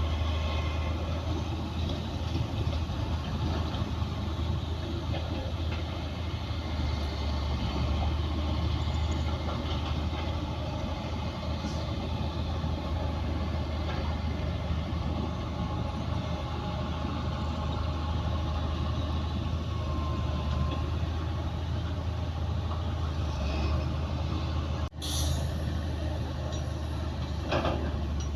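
Heavy diesel earthmoving machinery (bulldozer and dump trucks) running steadily with a deep engine drone. The sound cuts out for an instant about 25 seconds in, and a few short rattling clanks come near the end.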